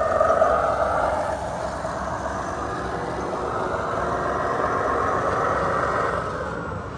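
Radio-controlled construction truck running, a steady mechanical whine that slowly shifts in pitch.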